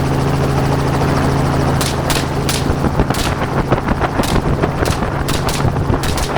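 Helicopter engine and rotor running steadily, with a string of about nine gunshots fired from the helicopter starting about two seconds in, several in quick succession.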